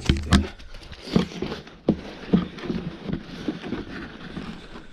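Irregular knocks and clunks, a dozen or so spread over a few seconds, with the loudest right at the start and about a third of a second later.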